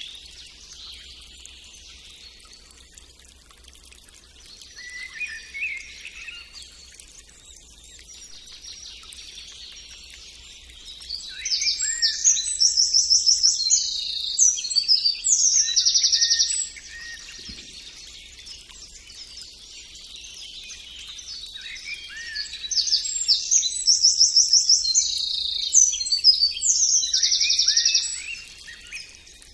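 Birds singing: scattered chirps, then two long bouts of loud, fast trilled song, about a third of the way in and again toward the end.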